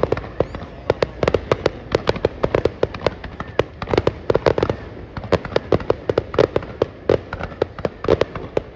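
Fireworks going off in rapid, irregular clusters of sharp bangs, several a second, with hardly a pause between them.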